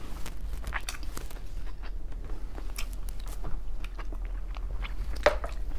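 A person chewing a mouthful of peeled shrimp close to the microphone: many small, irregular mouth clicks and smacks, with one sharper click near the end.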